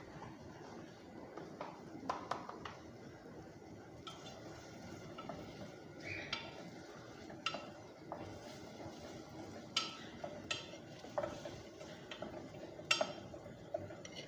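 Kitchen utensils clinking and tapping against dishes while stirring: a string of irregular light clicks, with a few louder clinks in the second half.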